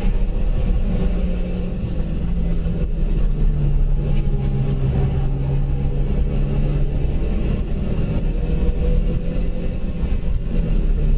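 Citroën DS3's engine running under load, heard from inside the cabin over steady road and tyre noise. Its note drops in pitch about three and a half seconds in, then shifts again near the end.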